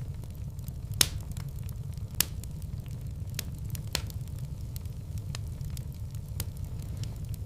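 Fireplace fire crackling, with scattered sharp pops over a steady low rumble of the flames; the loudest pops come about one and two seconds in.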